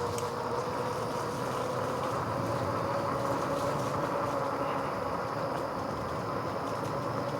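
RadRover 5 e-bike riding along a wet trail: a steady rolling noise from the fat tyres and drivetrain, with a faint, even hum from the rear hub motor.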